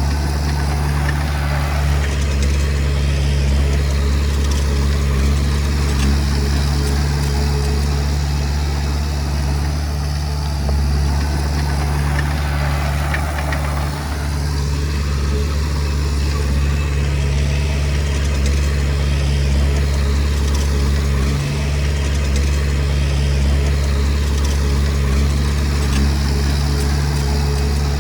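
Komatsu D20P bulldozer's diesel engine running at a steady, even speed.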